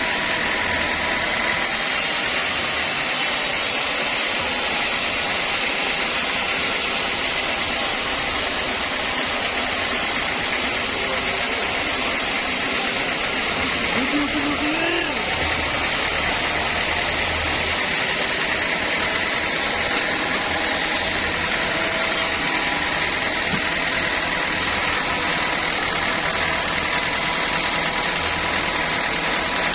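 Sawmill machinery running steadily, an even mechanical drone with hiss that holds unbroken throughout.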